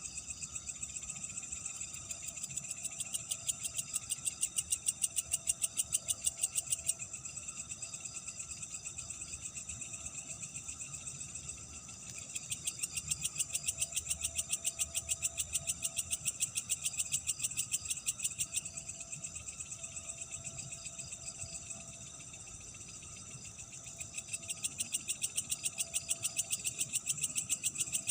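Chorus of night insects, with bouts of rapid, evenly pulsed high trilling that swell in and stop every several seconds over a steady background chirring.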